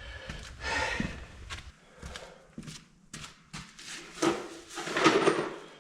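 Footsteps and the knocks and clatter of a hand tool being put away: scattered sharp knocks, with louder rattling about a second in and again near the end.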